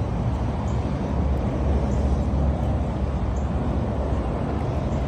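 Steady, loud low rumbling noise with no clear pitch or rhythm.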